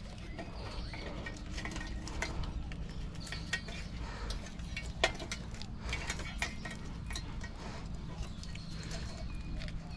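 Hands working loose a vehicle wiring harness: scattered clicks, clinks and rattles of plastic connectors, clips and wires being pulled and handled, with one sharper snap about five seconds in. A steady low rumble sits underneath.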